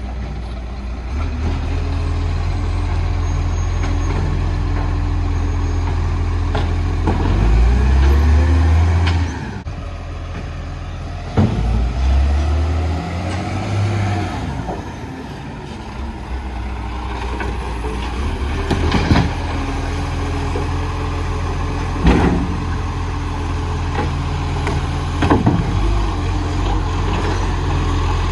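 Garbage truck engine running, revving up and falling back twice, with a few sharp bangs along the way.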